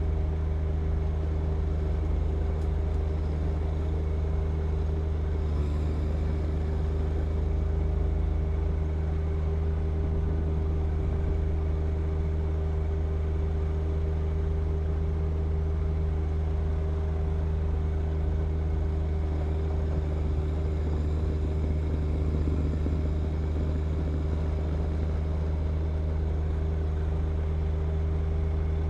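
John Deere 1025R compact tractor's three-cylinder diesel engine running steadily at an even speed, with no change in pitch or loudness.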